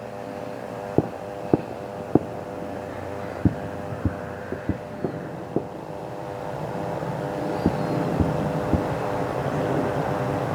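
Aircraft engine noise: a steady hum with a few held tones, growing louder in the second half. About a dozen sharp clicks are scattered through the first eight seconds.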